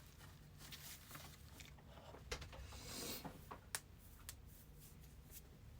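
Near silence: a quiet room with a low steady hum and a few faint, scattered clicks.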